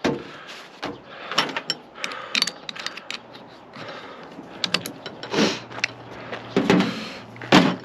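Irregular metallic clicks, knocks and scraping as the sheet-metal casing and parts of a microwave oven are handled and worked with hand tools.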